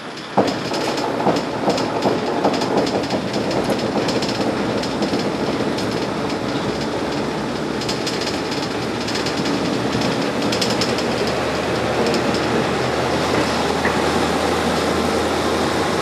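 Diesel railcar running along the line, heard from inside the car: a steady rumble of wheels and engine, with clickety-clack from the rail joints coming in groups. A sharp knock about half a second in, after which the running noise is louder.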